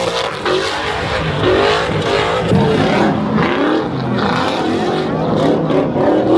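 A car engine revving hard, its pitch climbing and falling several times, as in a burnout.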